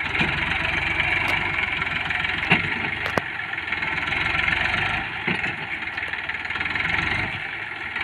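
Tractor's diesel engine running hard while straining to pull a fully loaded trolley, revving up and easing off twice, with a few sharp knocks in the first few seconds.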